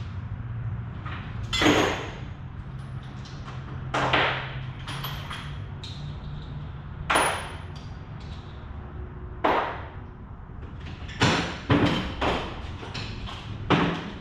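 Irregular knocks and clanks of parts and tools being handled and set down, about eight in all with a cluster near the end, a few with a short high ring, over a steady low hum.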